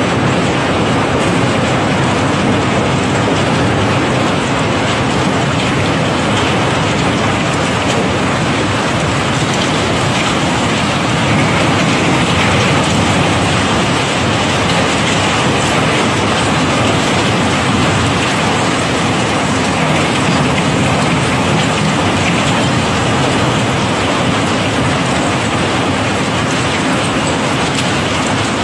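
A continuous stream of cobblestones pouring and clattering against each other, a dense, steady rattle.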